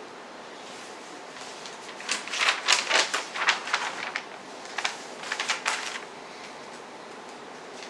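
Glossy book pages being handled and turned: crisp paper rustling in two short bursts, about two seconds in and again around five seconds.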